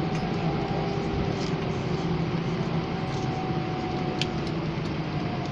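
Steady vehicle-interior hum and rumble with a faint whine that sags slightly in pitch, and a few light clicks about four seconds in.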